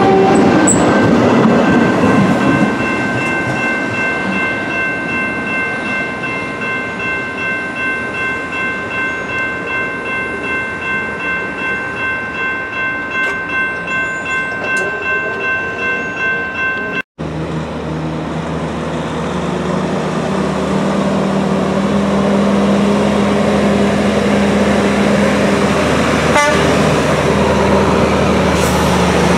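TEXRail Stadler FLIRT diesel commuter train passing close by. Its horn cuts off just after the start, and the pass-by carries a steady ringing tone that pulses about twice a second. After an abrupt cut, a train's engine runs with a low steady hum, heard from farther off.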